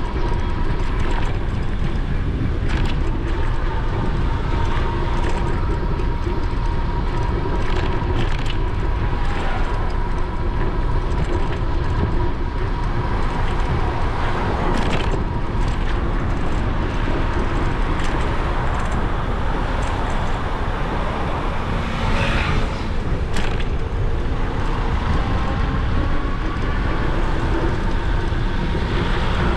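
Wind buffeting a bike-mounted GoPro and road rumble from a moving e-bike, with city traffic passing and a faint steady whine underneath. A few short clicks, and a brief rising sound about two-thirds of the way through.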